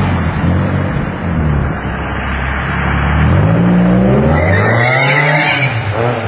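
Twin-turbocharged Nissan 350Z's VQ35DE V6 accelerating hard, its pitch dropping and climbing again as it pulls up through the revs. A high-pitched squeal joins in about four and a half seconds in for about a second.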